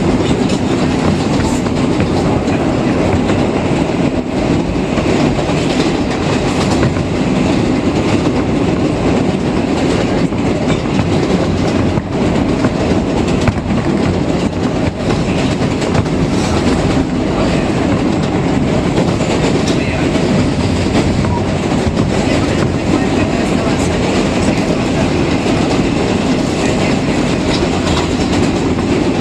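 New York City Subway 7 express train running at speed between stations, heard from inside the car: a steady rumble of wheels and motors with clickety-clack from the rails.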